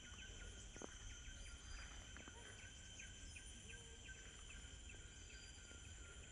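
Faint, steady high-pitched insect chorus over a low rumble.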